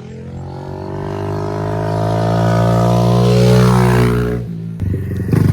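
Dirt bike engine at steady revs growing louder as the bike rides toward the microphone, its pitch easing down as it comes closest. About a second before the end it changes to a louder, choppier low-rev note close by.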